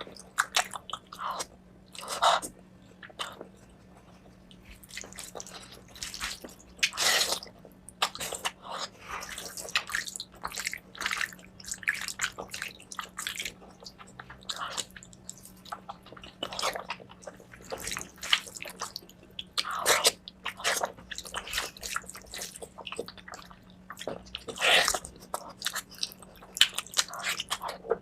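Close-miked eating: wet chewing, smacking and squelching of mutton fat curry and rice, in irregular bites and mouthfuls.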